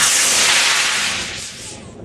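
Model rocket motor igniting with a sudden loud hiss as the rocket lifts off the pad, fading away over about two seconds as it climbs.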